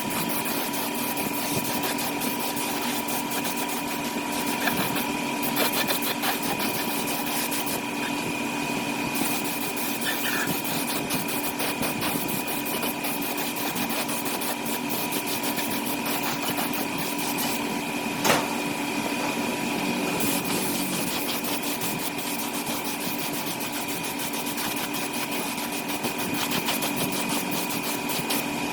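A small motor running steadily with a constant high hum, and one sharp click about 18 seconds in.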